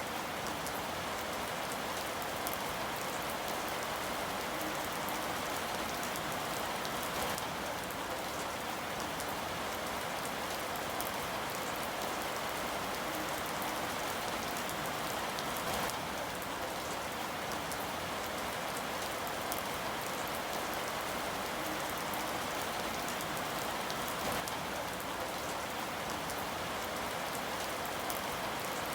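Steady rain falling, a dense even patter of drops on a surface with no thunder.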